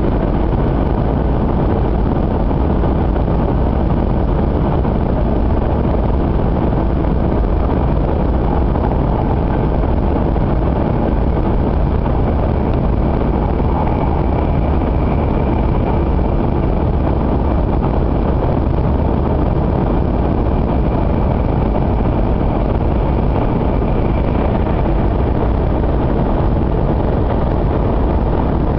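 Steady running noise heard inside the passenger cabin of an 800 series Shinkansen at speed: a dense, even rumble, with a faint high whine that comes in about halfway and fades near the end.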